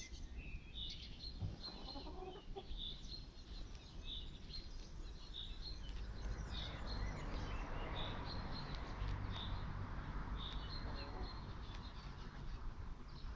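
Short high bird chirps repeated about once a second, over a low outdoor rumble. A steady hiss comes in about halfway through.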